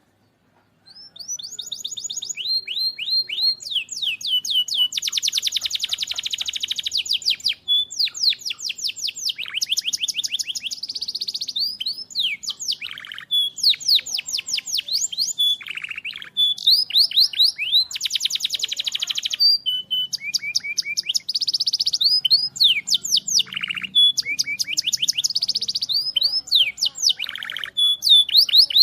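White-rumped shama (murai batu) singing, starting about a second in, in rapid-fire volleys of sharp repeated notes and fast trills, one phrase straight after another.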